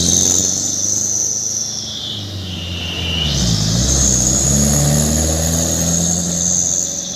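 Diesel truck engine running through a loud 'cung' exhaust. The revs ease off around two to three seconds in, then climb again and hold, with a high whistle over the engine note.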